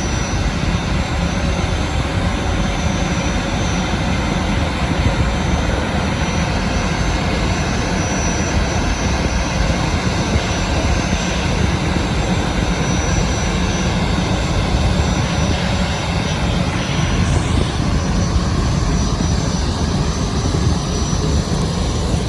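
Loud, steady engine rumble mixed with rushing noise from a vessel, unchanging throughout.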